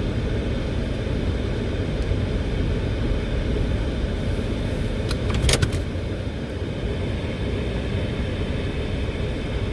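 Steady low rumble of a 2019 Toyota RAV4 heard from inside the cabin as it pulls slowly into a parking spot, with a few sharp clicks about halfway through.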